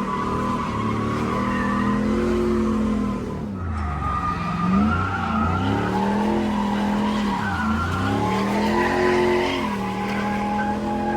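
Drift car sliding with its tyres squealing while the engine revs rise and fall several times as the throttle is worked through the drift.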